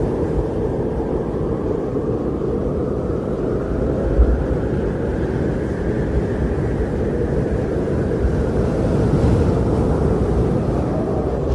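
Strong blizzard wind blowing steadily as a low, rushing roar, swelling and easing slowly, with a few brief low gusts buffeting through.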